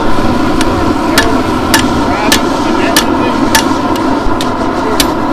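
Hand hammer striking hot steel on an anvil, an even run of blows a little under two a second, as scrap steel is forged into a knife blade.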